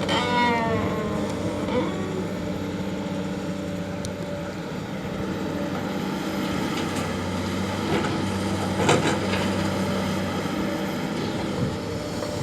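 Excavator's diesel engine running steadily, with a brief falling whine at the start and a few sharp knocks about nine seconds in.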